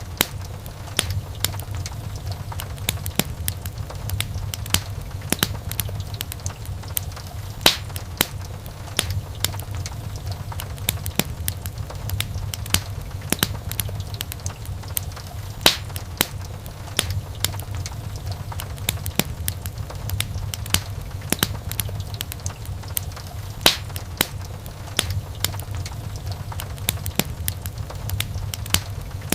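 Wood fire burning in a fireplace, crackling with frequent sharp pops and snaps over a steady low rumble of flames.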